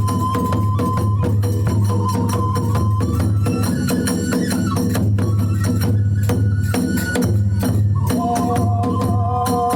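Kagura festival music: a bamboo flute holding long notes that step up and down, over rapid, continuous beating of drums and clashing hand cymbals.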